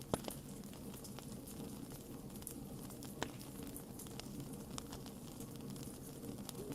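Wood campfire burning: a steady low rumble and hiss with scattered sharp crackles and pops, two louder pops, one just after the start and one about three seconds in.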